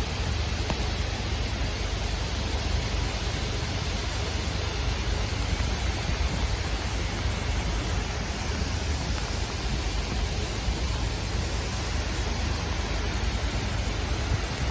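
Steady rushing noise of a waterfall and its wind-blown spray, with a low rumble of wind on the microphone.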